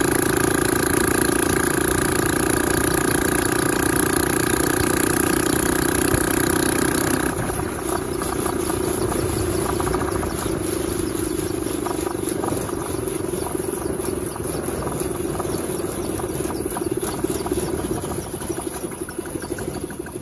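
Motorcycle engine of a homemade mini jeep running steadily; about seven seconds in the sound gets quieter and loses its high hiss.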